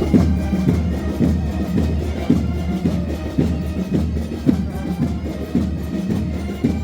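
Military band music with a drumbeat struck steadily about once a second.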